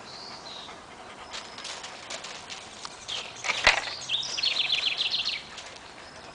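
Dogs panting and sniffing while rustling at the garden fence, with a single sharp knock about three and a half seconds in. A bird chirps in a quick run of high notes shortly after.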